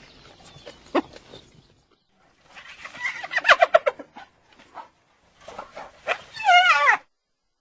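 Spotted hyena giggling, a run of rapid high-pitched yelping notes. There is a short call about a second in, a stuttering burst of notes a little later, and near the end a quick series that falls in pitch before cutting off.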